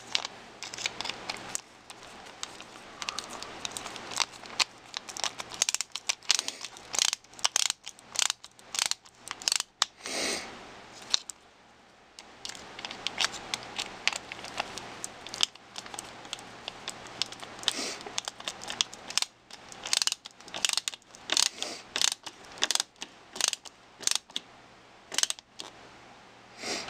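Small plastic and metal RC truck parts and hand tools being handled and fitted together: irregular clicks, taps and light rattles.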